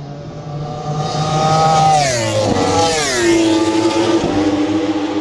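MotoGP racing motorcycles going by at speed, the high engine note dropping sharply in pitch twice in quick succession about halfway through as they pass.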